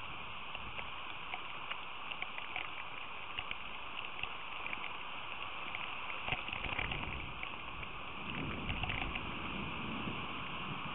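Rain falling steadily, a constant hiss dotted with the ticks of drops striking nearby. A low rumble swells about six seconds in and again from about eight to ten seconds.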